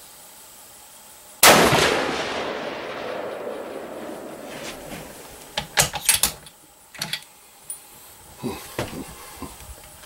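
A single high-powered bolt-action rifle shot from the bench about a second and a half in, a loud report followed by a long rolling echo. It is a sighting-in shot to check a scope adjustment. A few sharp metallic clicks and knocks follow.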